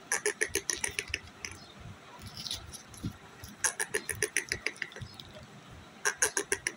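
Indian ringneck parrot giving three fast runs of short, sharp repeated notes, about nine a second, with pauses between the runs.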